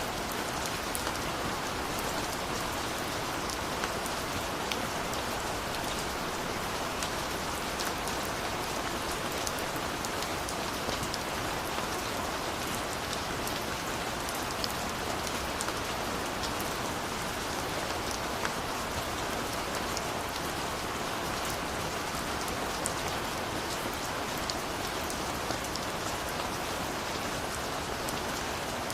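Steady rain falling, a constant hiss with scattered individual drops pattering on a surface.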